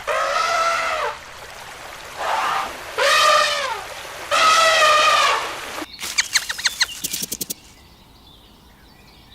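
Farm animal calls: four drawn-out calls that rise and fall in pitch, then a quick run of short, rapid clicking calls about six seconds in.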